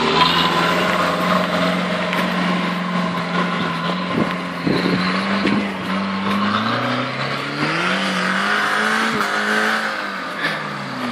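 Suzuki Samurai 4x4's engine pulling away and driving up a snowy slope. It holds a steady note at first, then revs rise and fall several times from about seven seconds in as it climbs.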